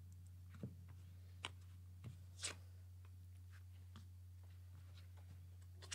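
Tarot cards being handled and laid down: a few faint short clicks and flicks in the first two and a half seconds, the loudest near the middle, over a steady low hum.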